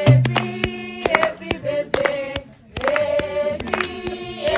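A group of voices singing together unaccompanied, holding sustained notes, with hand clapping along to the song.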